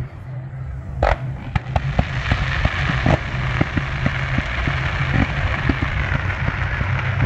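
Aerial fireworks going off: a loud bang about a second in, then a rapid run of pops over a continuous hissing from about two seconds in.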